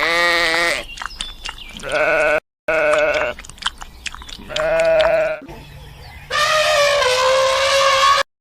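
Bleating from a farm animal: several short wavering bleats, then one long drawn-out bleat near the end, in separately cut clips.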